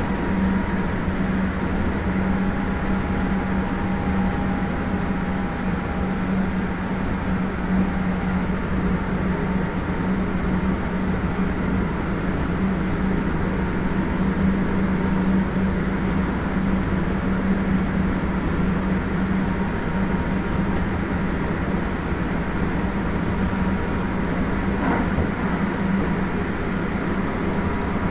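Kintetsu 1420 series VVVF prototype electric train running at steady speed: wheel-on-rail rumble with a constant low hum.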